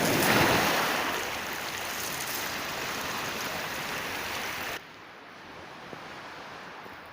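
Sea surf breaking on the shore, one wave surging loudest in the first second. About five seconds in, the sound drops suddenly to a quieter wash.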